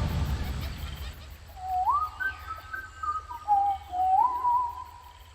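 The music dies away, then a few whistled calls, each sliding up in pitch and then held, overlap over a faint low hum.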